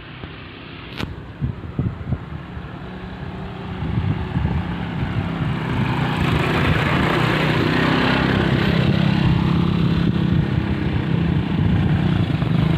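Container freight train passing. Its noise builds from about four seconds in to a steady loud engine drone with rolling rumble from the wagons. A few knocks come in the first two seconds.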